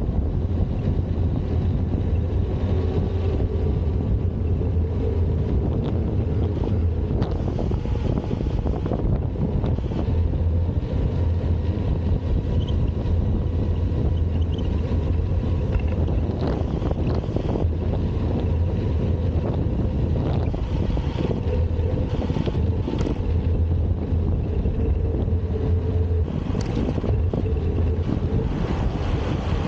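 Wind buffeting the camera microphone on a moving bicycle: a steady low rumble with a few short clicks scattered through it.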